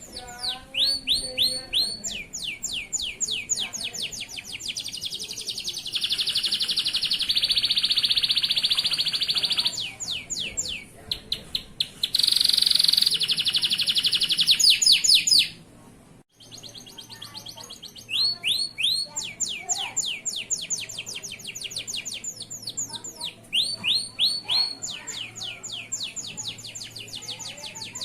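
Male canary singing in full, continuous song: fast trills of repeated high sweeping notes, with two long buzzing rolls, one about six seconds in and one about twelve seconds in. The song breaks off briefly just past the middle, then the quick trills resume.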